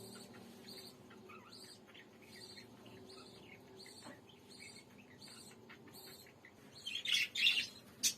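Parrot chirping over and over, a short high chirp roughly every half second, then a louder harsh call near the end, followed by a sharp click.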